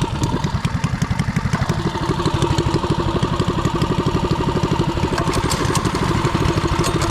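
Small single-cylinder engine running steadily with an even firing beat, its note shifting slightly about a second and a half in.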